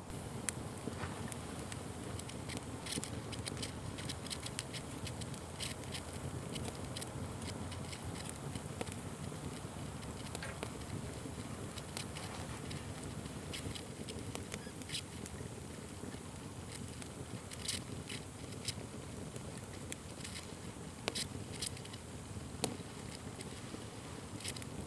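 Wood fire burning, with a steady low rush and many sharp crackles and pops at irregular moments, a few of them louder.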